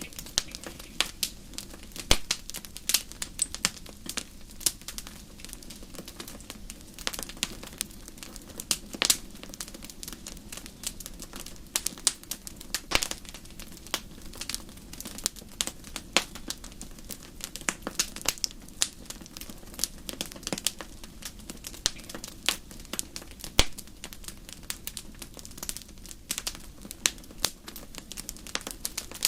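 Bonfire crackling: frequent irregular sharp pops and snaps over a low steady hiss.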